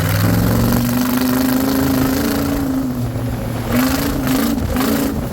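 A mud buggy's freshly swapped-in engine running smoothly, with its pitch rising and falling a few times near the end as it is revved.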